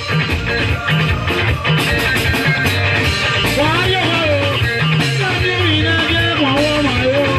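Live band music with a steady drum and bass beat and guitar; about halfway through, a melodic line with sliding, bending pitch comes in over the band.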